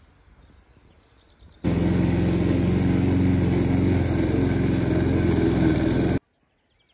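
A small engine running at a steady speed. It starts abruptly about a second and a half in and cuts off abruptly about six seconds in.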